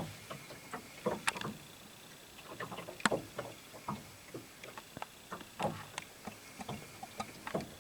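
Water lapping against the hull of a boat at rest, with irregular small knocks and slaps spread through the quiet.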